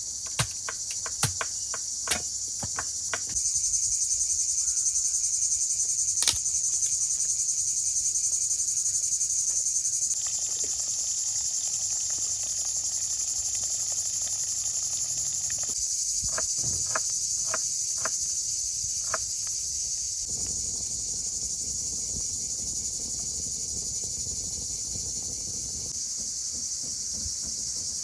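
Insects chirring steadily in a high, continuous band. Sharp clicks or knocks come in the first few seconds and again about two-thirds of the way through.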